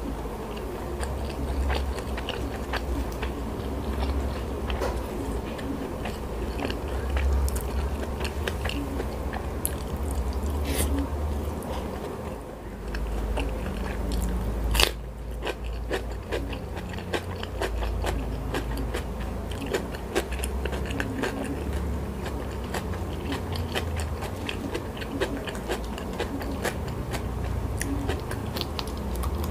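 Close-miked chewing of crunchy food (fried salted fish, rice and raw vegetables), with frequent short, crisp crunches and one especially sharp crunch about halfway through.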